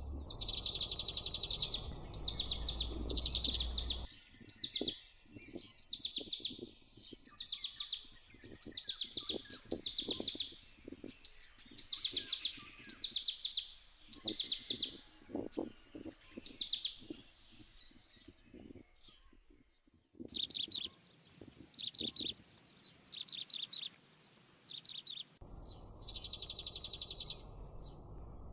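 Nestling birds chirping in quick high-pitched bursts, repeated about once a second, with soft low knocks and rustles in the nest under the calls.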